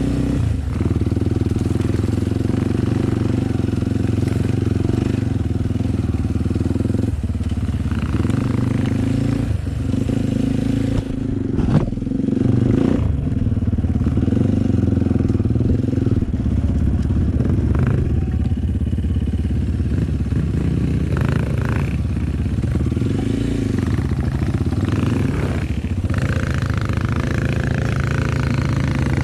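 Enduro dirt-bike engine running steadily, its pitch rising and falling a little with the throttle. A single sharp knock comes about twelve seconds in.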